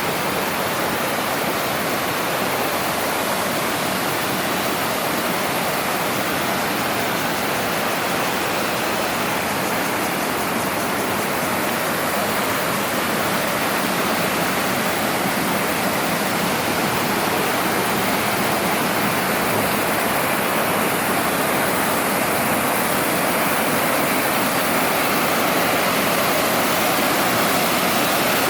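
Fast mountain stream running loudly over rocks, a steady rush of water, high enough to make crossing on foot unsafe.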